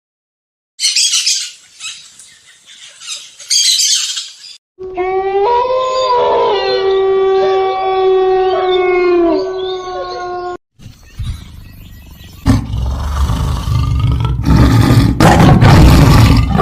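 Three separate animal calls in a row: a harsh hissing sound, then one long pitched call held for about six seconds, then a loud rough roar that builds near the end.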